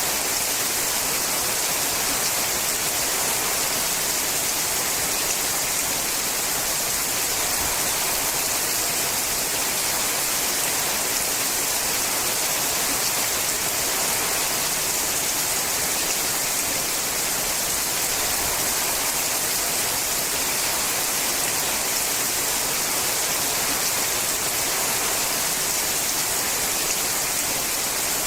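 Rain falling steadily on a sheet-metal roof, an even hiss that does not change.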